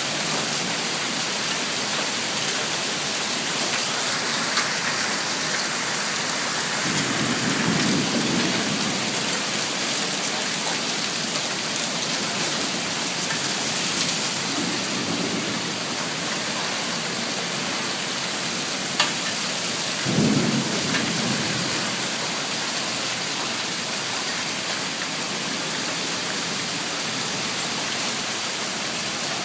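Heavy, steady rain from a violent thunderstorm, with thunder rumbling about three times: a long roll about a quarter of the way in, a softer one midway, and a sharper clap about two-thirds through.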